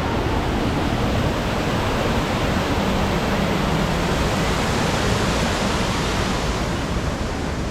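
Steady rushing noise with no clear pattern.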